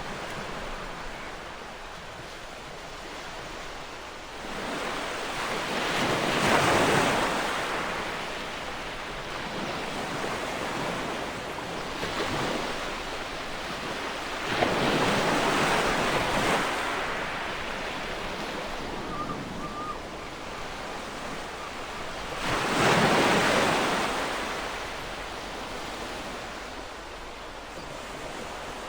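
Ocean waves breaking on a shore: three waves swell up and wash in, about eight seconds apart, over a steady surf hiss.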